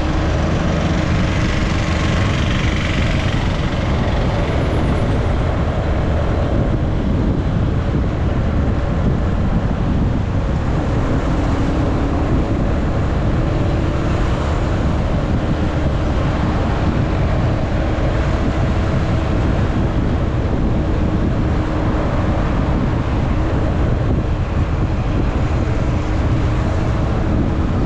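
Motorcycle riding at a steady speed: a constant rush of wind noise on the action camera's microphone over the engine's steady drone.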